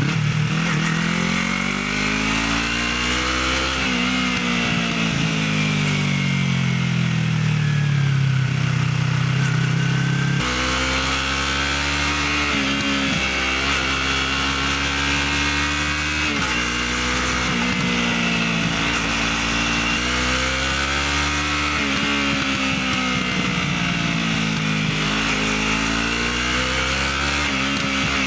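Motorcycle engine on its stock exhaust, running under way, its pitch rising and falling again and again as it speeds up and eases off. The sound changes abruptly about ten seconds in.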